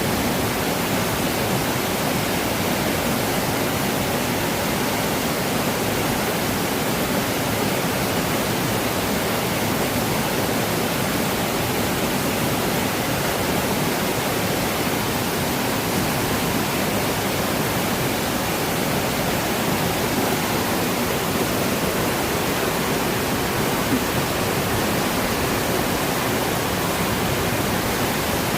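Flowing water, waterfall-like: a steady, even rushing with no breaks or distinct splashes.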